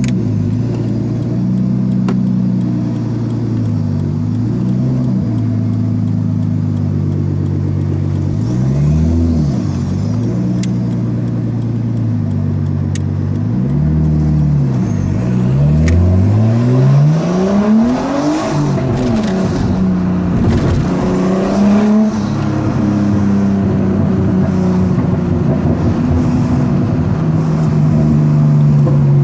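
Nissan Skyline R33 engine through a straight-pipe exhaust with the rear muffler deleted, blipped up and back down several times between steady running. The biggest and loudest rev comes a little past halfway.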